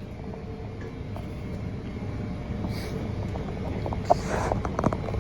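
Steady low machine hum, with a few sharp clicks and a brief squeak about four seconds in.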